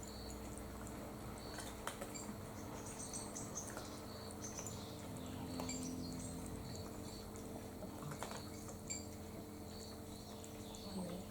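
Faint, scattered chirps of small birds singing, with small clicks and crunches of cats eating dry food, over a steady low hum.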